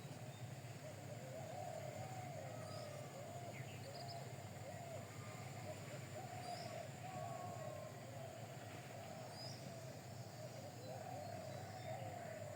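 Birds calling: a run of low, wavering cooing or warbling calls, with a few short high chirps now and then, over a steady low hum.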